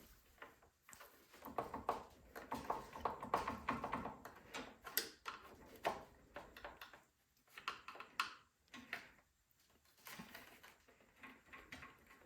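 Irregular light clicks, taps and scrapes of hands working at a snowblower's plastic choke knob, wiggling it to pry it off its shaft.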